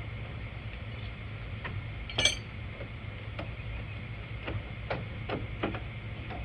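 Clicks and knocks from a Kubota M62 front loader joystick and its valve linkage as the freshly repaired lever is worked through its positions, with a sharp metallic click about two seconds in. A steady low hum runs underneath.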